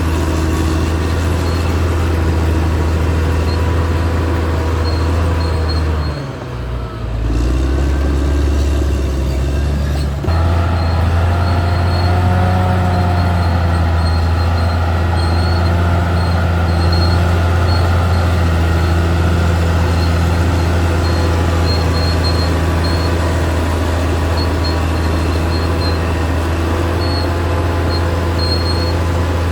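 Caterpillar D6R XL bulldozer's diesel engine running steadily under work, with a faint intermittent high squeak. The engine note dips briefly about six seconds in and picks back up around ten seconds.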